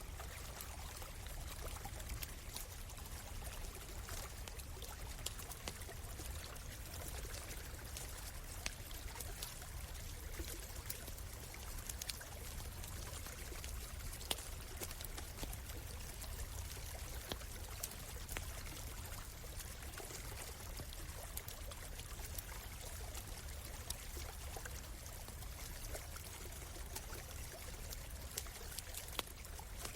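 Small stream flowing and trickling steadily, with scattered sharp crackles and pops from a burning wood campfire.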